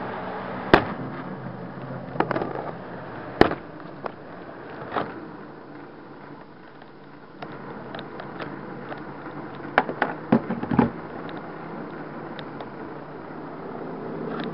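HO-scale model train running with the camera riding on board: a steady hum from the rolling train, broken by sharp clicks and knocks, two loud single ones in the first few seconds and a quick cluster about ten seconds in.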